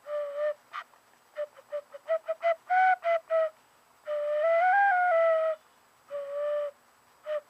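Recorder playing a simple tune: a run of short notes, then a long note that steps up in pitch and back down, and a held lower note near the end.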